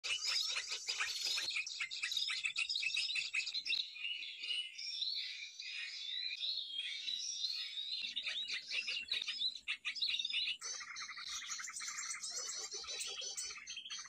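A dense mix of small birds chirping and twittering, with many quick high calls overlapping. The mix changes abruptly a few times, and in the last few seconds it becomes a rapid, regular chatter.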